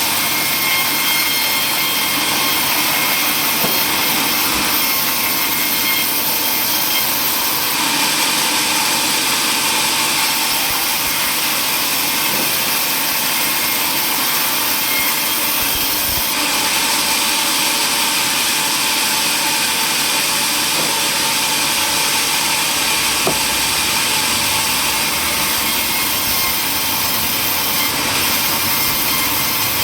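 Power saw running steadily while cutting through wood.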